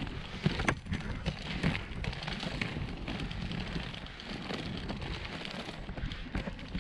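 Large 125 mm off-road inline skate wheels rolling over a dirt and gravel trail: a steady gritty rumble with scattered clicks from small stones.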